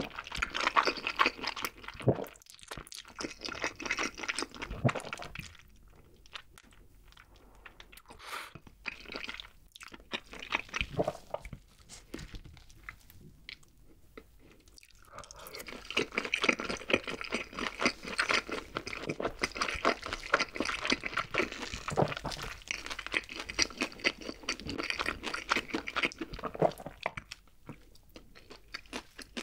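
Close-miked mouth sounds of eating: chewing black bean noodles at first, then, from about halfway, biting and chewing crispy fried chicken with dense, loud crunching that dies down near the end.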